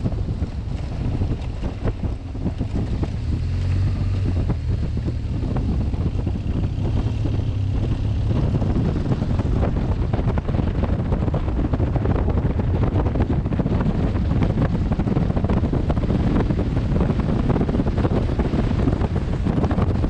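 Wind buffeting a helmet-mounted camera's microphone on a moving BMW GS1200 motorcycle, a dense low rumble with the engine's steady low drone faintly beneath it; the buffeting grows rougher about nine seconds in.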